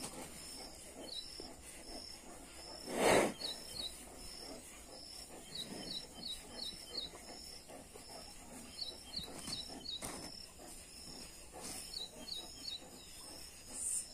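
Quiet outdoor ambience with a small bird calling in quick runs of short high chirps over a thin steady high tone. A brief loud burst of noise comes about three seconds in; no lion calls are heard.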